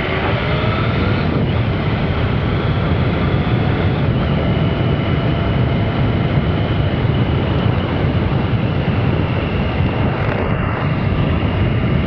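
Triumph Sprint RS 955i inline-triple engine pulling under way, its pitch climbing in the first couple of seconds and then holding steady, under heavy wind noise rushing past the rider.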